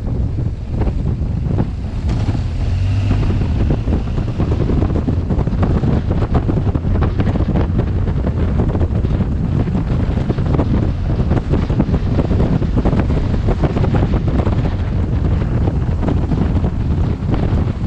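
Heavy wind buffeting on a helmet-mounted camera microphone from a motorcycle at riding speed: a loud, steady rush with constant low rumble and fluttering gusts.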